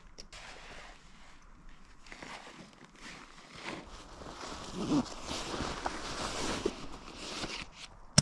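Footsteps crunching and outdoor gear rustling: faint at first, louder and busier from about halfway.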